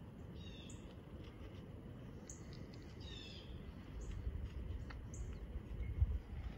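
Small birds chirping in the woods: a string of short, high chirps and quick falling notes. A low rumble builds underneath from about four seconds in.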